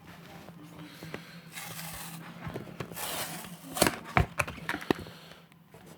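A freshly heat-formed Kydex sheath being worked loose from the knife it is stuck on: stiff plastic rubbing and scraping, then a cluster of sharp clicks and snaps a little past the middle. A steady low hum runs underneath.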